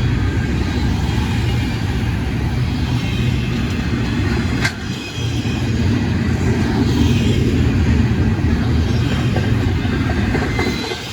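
Freight train rolling past: a loud, steady low rumble of locomotive and cars, with one short click about halfway through.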